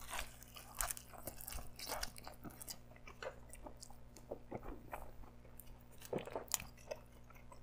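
Close-miked chewing of a bite of pepperoni pizza, quiet mouth sounds with many small irregular crunches and clicks from the crust.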